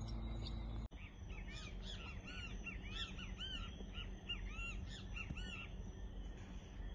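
Birds calling in a quick run of repeated, arched, slightly harsh notes, starting about a second in and stopping near six seconds, after a low steady rumble cuts off abruptly.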